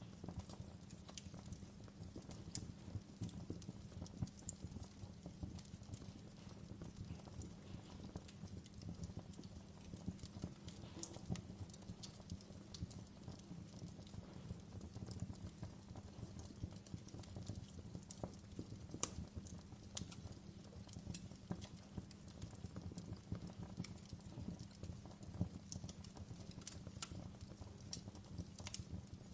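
Wood fire burning in a fireplace, crackling with irregular sharp pops and snaps over a low steady rumble of flames.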